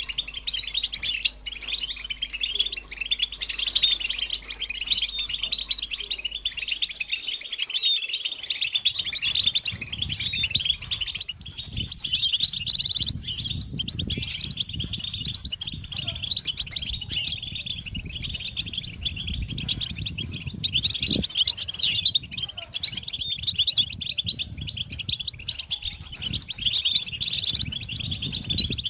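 Several European goldfinches twittering and singing without a break: rapid, tinkling chatter of the kind given as courtship and mating calls. A steady low hum lies underneath for about the first seven seconds, giving way to a low rumble.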